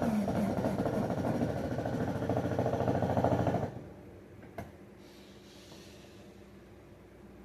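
Power drill motor running under load, its pitch dropping slightly near the start, then stopping abruptly a little over halfway through, followed by a single click.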